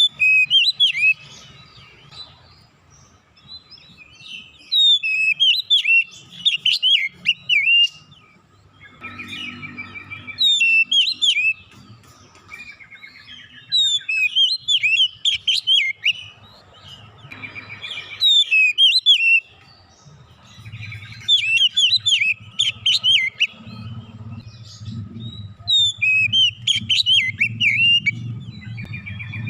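Oriental magpie-robin (kacer) singing in quick bursts of varied high whistles and chirps, a few seconds each with short pauses between. The song is full of imitated phrases mixed into its own.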